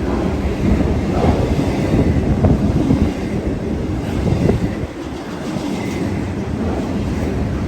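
Freight train cars rolling past close by, a steady rumble with the wheels knocking and clacking over the rail joints.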